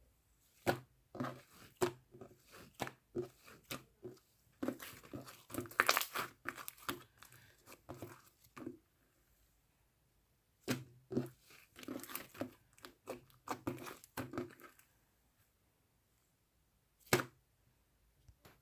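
Mixed slime being squished and stretched by hand, giving quick sticky crackles and pops. The crackling comes in two long runs with a short pause between, and there is one single pop near the end.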